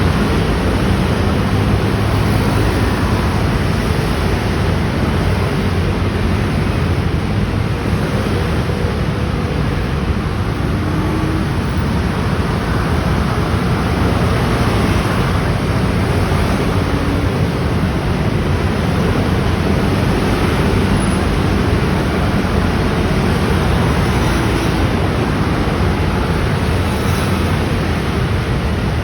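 Dense traffic of many scooters and motorbikes streaming past: a steady wash of small engines and tyre noise with no single vehicle standing out.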